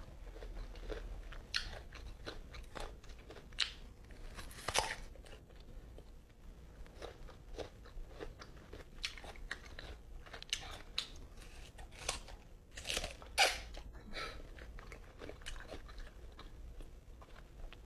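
Close-miked eating of mango, irregular crisp crunches and wet chewing as slices are bitten and chewed, with a few louder bites.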